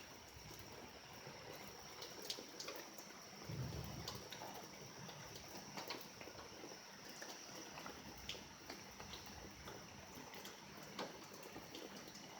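Faint dripping and trickling of storm rainwater, with scattered drip ticks and a brief low thump about three and a half seconds in.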